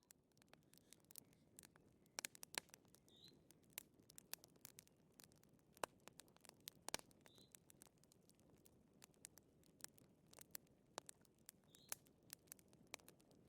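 Wood fire crackling faintly, with irregular sharp pops and snaps of varying loudness over a low hiss. A faint, short high note recurs about every four seconds.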